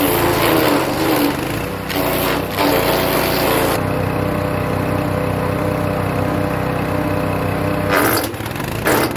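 Hecht 6208 wood chipper's small petrol engine running steadily as birch branches are fed and chipped. Noisy spells of chipping sit over the engine for the first few seconds and again near the end, with about four seconds of the engine alone in between.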